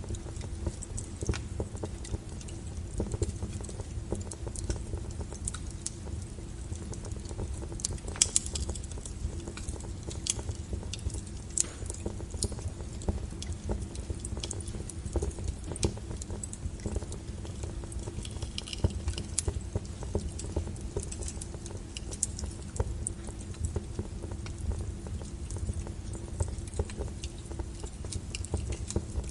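Log fire in a fireplace crackling, with irregular small pops and snaps over a low steady rumble, the sharpest pop about eight seconds in.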